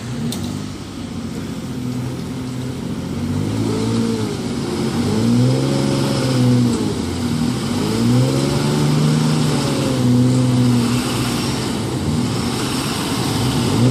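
Truck engine revving up and down in several long surges while the truck is stuck, a tire spinning in place instead of gaining traction.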